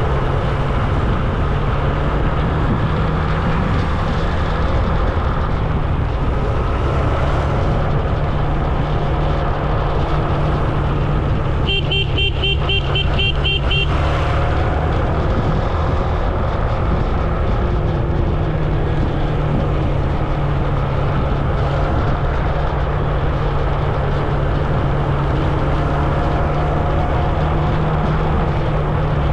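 Road noise heard while riding in traffic: a steady rumble and hiss. Near the middle a vehicle horn beeps rapidly, about four short beeps a second, for about two seconds.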